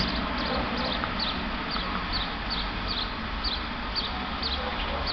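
A steady, unexplained roar, like distant jet engines under test, with a short high chirp repeating a little over twice a second.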